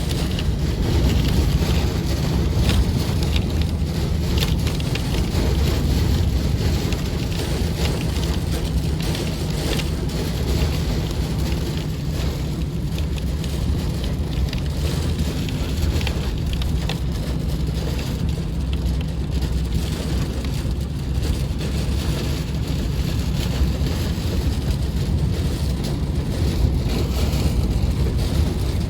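Heavy thunderstorm rain and strong wind beating on a car, over the steady low rumble of the car itself. The patter holds steady with no pauses.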